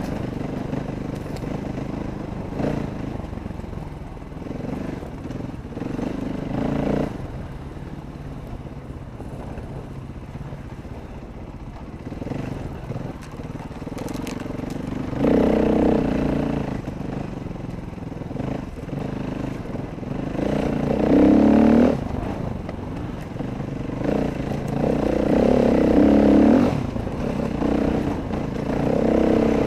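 Dirt bike engine running while being ridden, the revs rising and falling, with several louder bursts of throttle in the second half.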